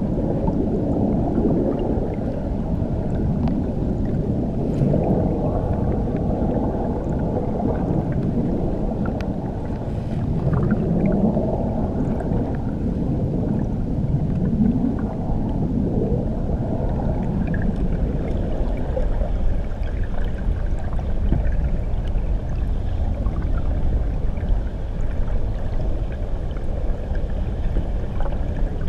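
Muffled underwater rumble of churning water, recorded beneath a waterfall, with a few slow rising swoops in pitch near the middle.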